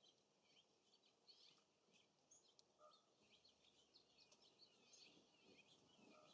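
Faint, busy chirping of several small songbirds: many short, high calls, often dropping in pitch, overlapping throughout, over a faint steady hiss.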